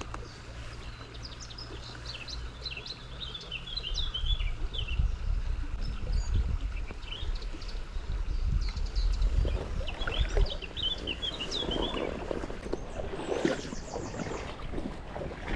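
Small birds chirping and twittering in short bursts, over a low rumble through the middle and rustling noise near the end.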